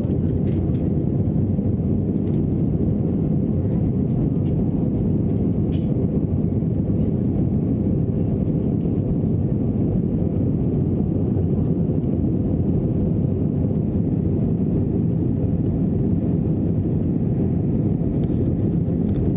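Steady, even rumble of an Airbus A321's engines and airflow heard inside the passenger cabin.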